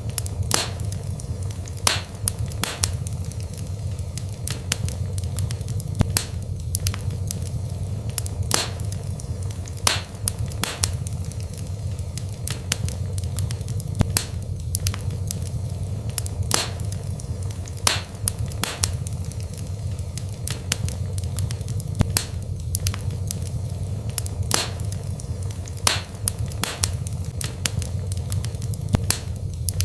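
Wood fire burning in a fireplace: a steady low rumble with sharp crackles and pops at irregular intervals, roughly one or two a second.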